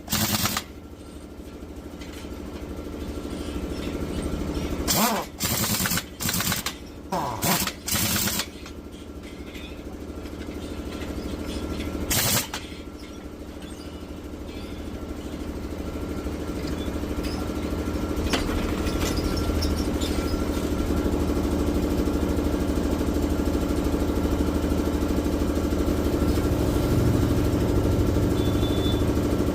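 A motor running steadily, growing louder over the first twenty seconds, with a cluster of short loud bursts about five to eight seconds in and one more near twelve seconds.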